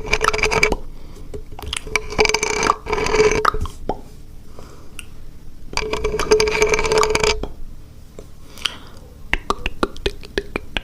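Close-up ASMR mouth sounds: wet clicks and pops from the lips and tongue, with three stretches of a steady held tone, and a quick run of clicks near the end.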